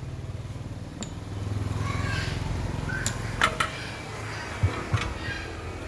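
A steady low mechanical hum that fades in the second half. Several sharp clicks and knocks come a few seconds in.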